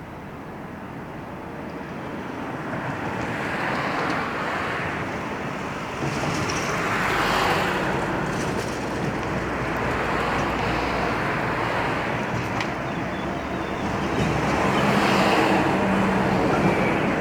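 Jet airliner on landing approach, its engine noise a broad rush that grows steadily louder with several swells.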